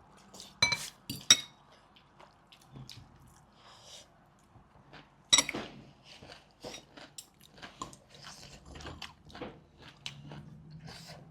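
Cutlery clinking against bowls and dishes during a meal, with a couple of sharp ringing clinks about a second in and a louder one about five seconds in, among many small taps and soft chewing.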